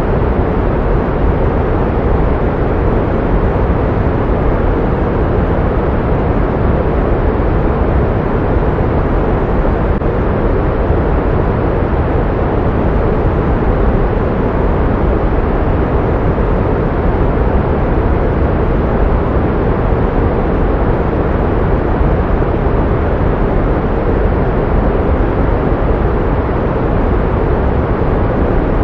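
Synthetic pink noise: a steady, unchanging hiss, heavier in the low end and dull at the top, of the kind used to mask tinnitus.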